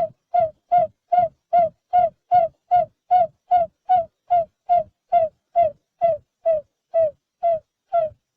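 Barred buttonquail calling: a steady series of short hooting notes, each falling slightly in pitch, about two and a half a second.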